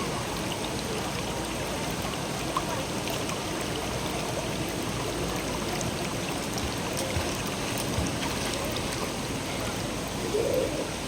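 River water running steadily over rocks, a continuous rushing stream.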